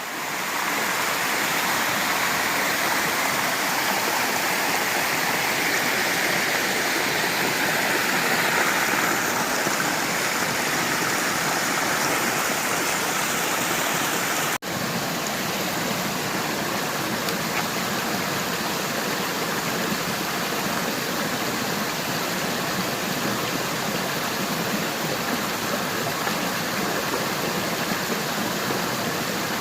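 Waterfall water rushing steadily, briefly cutting out about halfway through.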